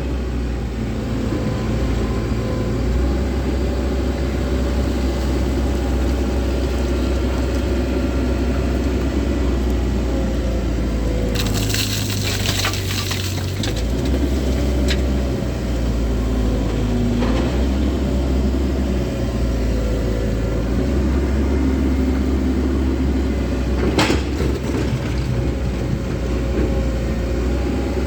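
Komatsu excavator's diesel engine and hydraulics running in the cab, the engine note stepping up and down with the working load. About eleven seconds in, a rattling crash of rock and soil lasts about two seconds as a load goes into the truck body, and there are a few single sharp knocks later.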